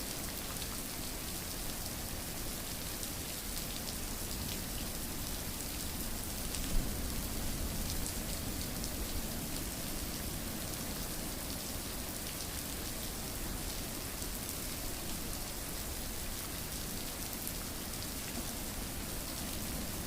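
Steady rain falling on a surface, an even hiss with scattered individual drop ticks and one sharper tap about seven seconds in.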